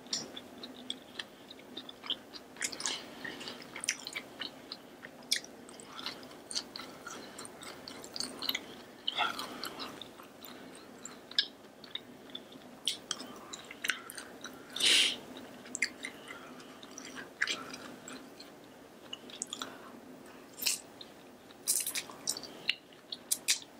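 Close-miked eating sounds of a person chewing food, with irregular wet smacks and crunches. She sucks in noodles from chopsticks near the end.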